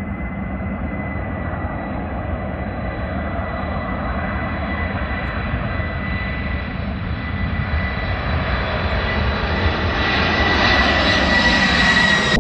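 Jet airliner's engines, a dense roar with a steady high whine over it, growing steadily louder as the aircraft comes closer.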